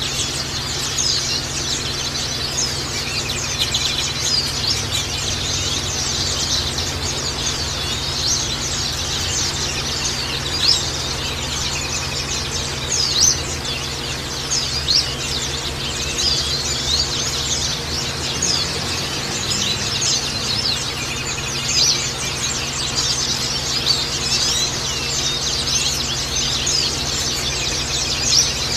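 White-eyes (pleci) chirping and twittering together: an unbroken stream of quick, high calls with no pauses, over a faint steady low hum.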